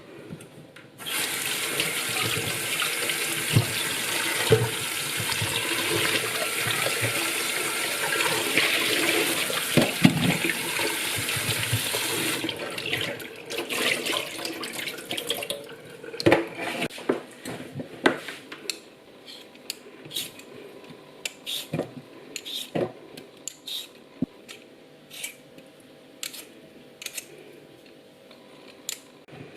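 Water running from a tap into a sink; it starts about a second in and shuts off after about eleven seconds. Scattered light clicks and knocks follow.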